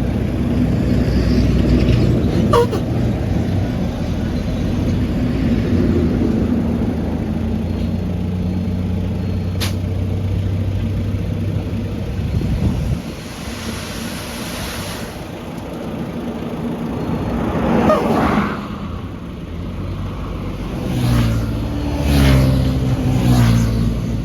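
Diesel engine of heavy earthmoving machinery running steadily, then dropping off sharply about halfway through and revving up again in swells near the end. Two short sharp clicks in the first half.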